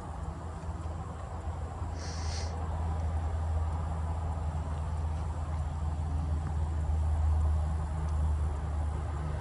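An engine running steadily with a low hum that grows louder toward the end, and a brief hiss about two seconds in.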